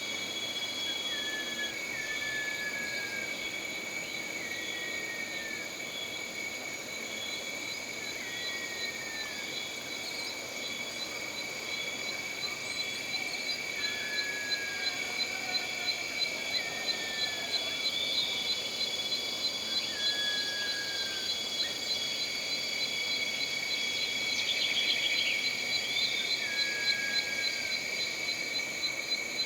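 Jungle ambience of steady, layered insect drones and cricket chirping. A short falling call repeats every couple of seconds, and about halfway in a rapid pulsing chirp joins.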